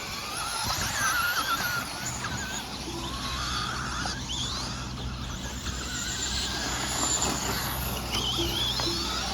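Radio-controlled short course trucks' motors whining around the track, several overlapping high-pitched whines that rise and fall as the trucks accelerate and slow, over a steady low hum.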